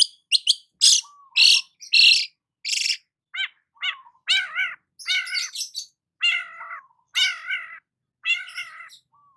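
Long-tailed shrike (cendet) singing: quick sharp chips, then a few harsh rasping notes, then a run of wavering, drawn-out calls about half a second each, separated by short pauses.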